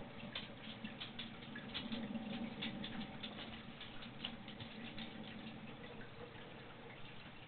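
Heavy thunderstorm rain falling steadily, with many close drops pattering and ticking irregularly.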